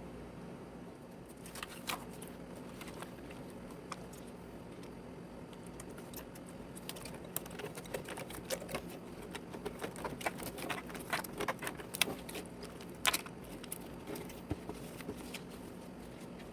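Scattered light clicks and taps of kitchen items being handled, busiest in the middle stretch, over a steady low hum.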